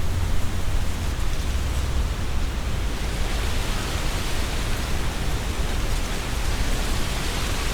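Strong wind blowing through trees, the leaves rustling, over a low rumble of the wind buffeting the microphone. The leaf rustle swells a little about three seconds in.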